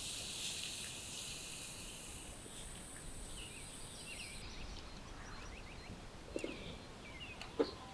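A high, even hiss fills the first half and cuts off abruptly about halfway through. Small birds chirp in short rising and falling calls through the second half, with a couple of sharp knocks near the end.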